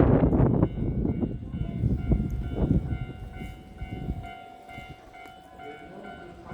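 Electric train moving at a station platform: loud rumble and wheel clatter that fades away over about four seconds, leaving a steady, quieter electrical hum.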